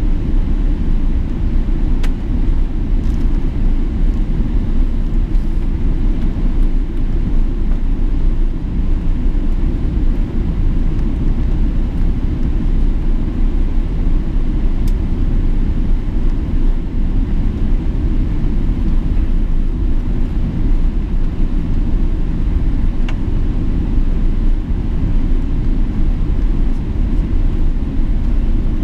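Boeing 777-300ER with GE90 engines making a steady, even low rumble that neither rises nor falls.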